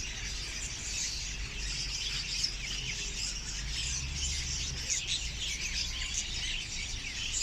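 A dense chorus of many caged pet birds chirping and twittering at once, a constant stream of short high chirps, over a steady low hum.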